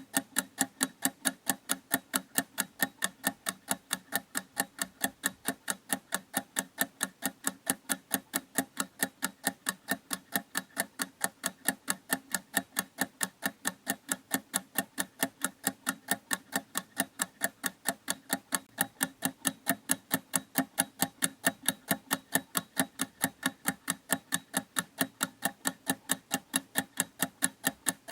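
Clock ticking in a fast, even rhythm, about three ticks a second.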